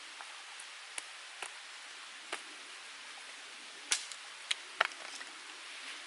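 Wood fire burning in a small twig stove: a steady hiss with scattered sharp pops and crackles, the loudest about four and five seconds in.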